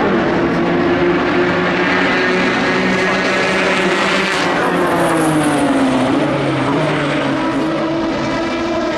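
Ford GT GTE race car's twin-turbo V6 engine running at speed, with a high, buzzing engine note. The pitch dips about six seconds in and then climbs again as the engine comes back up through the revs.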